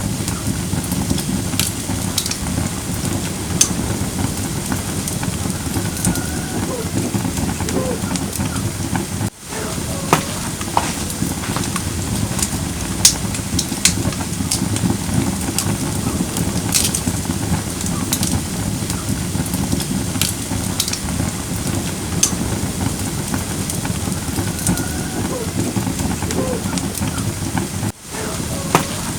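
Firewood burning in a camping brazier, with a steady low rush and sharp pops and crackles scattered throughout. The sound drops out for an instant twice.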